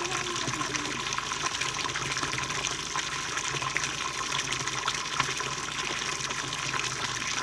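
Steady rush of running river water, with many small splashes.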